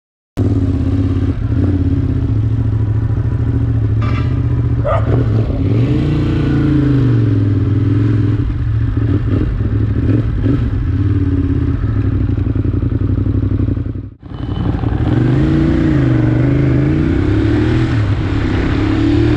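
A vehicle engine running hard, its pitch rising and falling several times as it revs up and eases off. There is a short dropout about fourteen seconds in.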